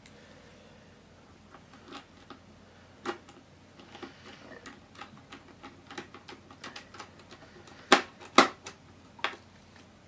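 Scattered small plastic clicks and taps from handling laptop parts during reassembly, with two sharp louder clicks about eight seconds in.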